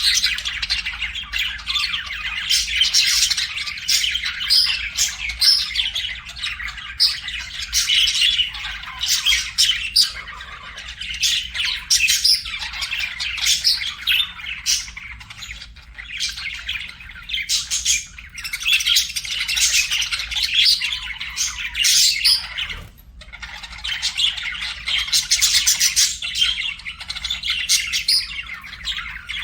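Budgerigars chattering and warbling non-stop, a dense run of quick chirps mixed with harsher squawks, with one brief lull about two-thirds of the way through.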